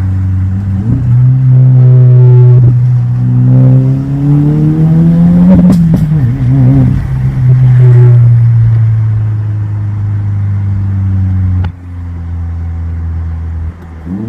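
2025 Subaru WRX tS's turbocharged 2.4-litre flat-four engine running under load: its low drone climbs in pitch for a couple of seconds, drops back about six seconds in, then holds steady. A sharp click comes near the end, as the level drops.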